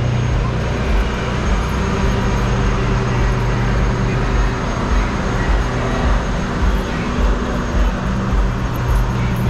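Train of boxcars rolling slowly past the track-side microphone, with a steady low engine hum.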